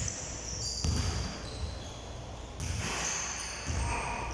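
Basketball bouncing on a hard court, a low thud every second or so, with short high squeaks of sneakers on the floor.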